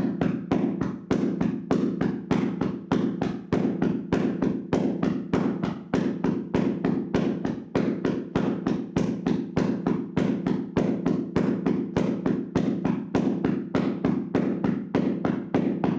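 Hands slapping and tapping rhythmically on a person's body during a percussive massage: a steady, fast run of dull slaps, about five or six a second.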